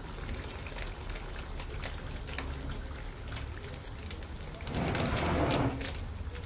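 Yogurt masala paste sizzling and spluttering in hot mustard oil in a steel kadai, with scattered crackles and a louder spell about five seconds in.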